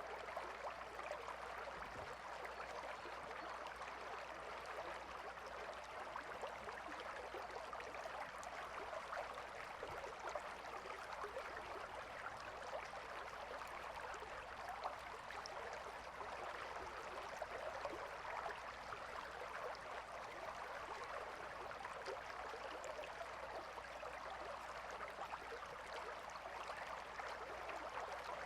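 River water flowing over rocks in a steady, even rush with fine gurgling and babbling texture.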